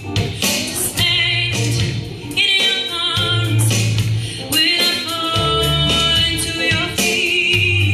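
A woman singing a pop ballad with vibrato on held notes, over an accompaniment with bass and drums.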